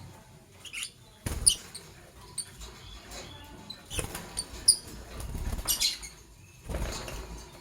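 Lovebirds giving short, high, scattered chirps, with four brief bursts of wing flapping.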